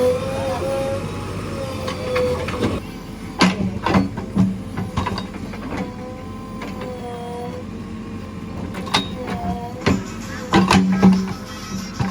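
JCB 3DX backhoe loader's diesel engine running under load while digging, with a hydraulic whine that wavers in pitch. Sharp knocks and clanks come in two clusters, a few seconds in and again near the end.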